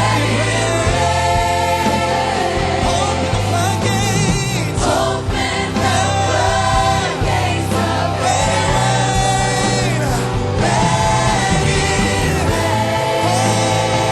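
Gospel worship music: a choir singing sustained lines over a band with a steady bass.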